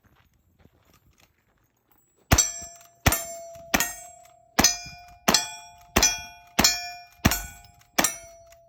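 Cowboy action shooting: nine gunshots in quick, even succession about two-thirds of a second apart, each followed by a steel target ringing with a clear tone that fades. The shooting starts a couple of seconds in.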